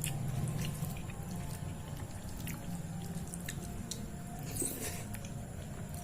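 Close-miked wet chewing and mouth sounds of eating soft food, with scattered small clicks and smacks and a brief louder burst about four and a half seconds in.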